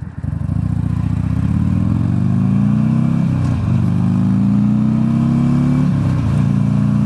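Motorcycle engine accelerating, its pitch rising, with a brief drop at two gear changes about three and a half and six seconds in, then running steady. A haze of wind noise runs underneath.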